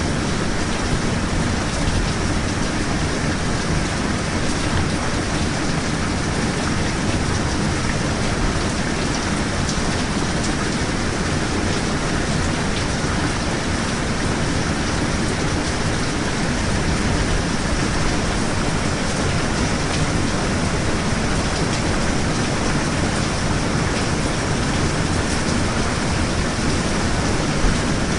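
Steady rain falling, an even, unbroken hiss of rain noise.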